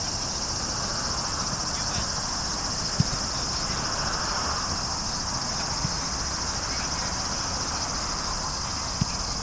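Steady high-pitched insect chorus, with two short dull thumps, one about three seconds in and one near the end.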